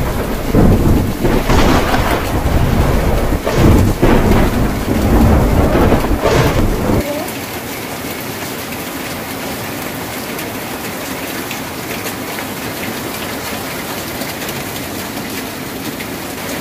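Heavy rain on a tin roof with rolling thunder for about the first seven seconds; the thunder cuts off suddenly, leaving steady rain.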